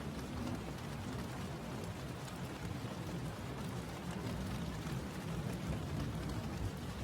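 Steady rain falling: an even hiss of drops with a low rumble underneath, unchanging throughout.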